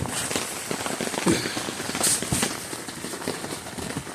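Rain drumming on the fabric of an inflatable tent, heard as irregular sharp taps and cracks over a steady hiss.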